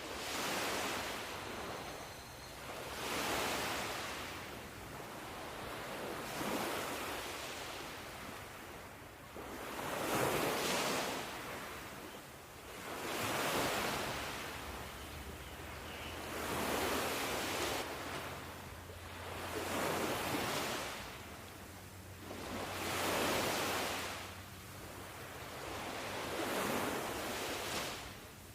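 Ocean waves surging in and washing back in a steady rhythm, about one wave every three seconds, each rising to a rushing hiss and then fading.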